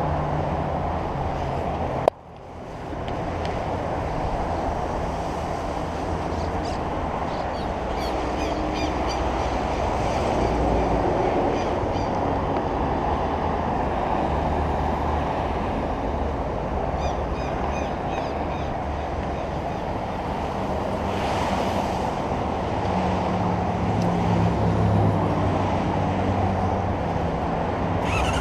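Honda CB-1's inline-four engine running steadily through an open, unmuffled exhaust, with a sharp click and a brief dip in level about two seconds in.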